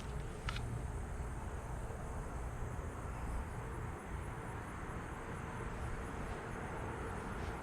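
Late-summer insects chirring steadily in a high pitch, one of them in a regular pulsing trill of several beats a second, over a low steady rumble.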